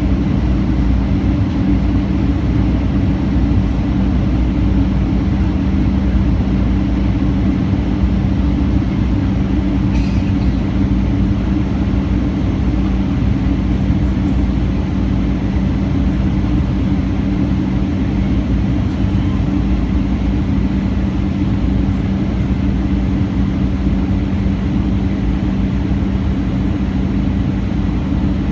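Steady low drone of a vehicle's engine and motion, unchanging throughout, with a constant hum.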